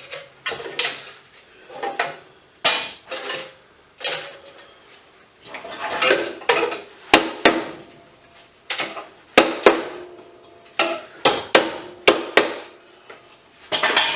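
Pieces of scrap metal being handled and dropped onto other scrap: a string of irregular metallic clanks and clinks, each ringing briefly.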